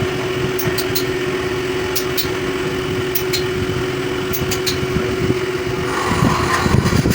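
A steady mechanical hum with a constant tone, a machine or motor running, with light ticks scattered through it; it grows busier and a little louder about six seconds in.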